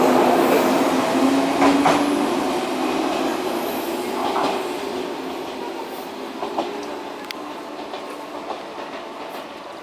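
Shinano Railway 115-series electric multiple unit pulling out, its motor hum and wheels clicking over rail joints fading steadily as it moves away.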